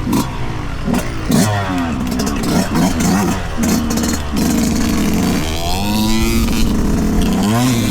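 2023 Yamaha YZ125's 125cc single-cylinder two-stroke engine revving up and down as the dirt bike is ridden on a trail, its pitch rising and falling repeatedly with a long climb about six seconds in. Sharp knocks and clatter come through in the first half.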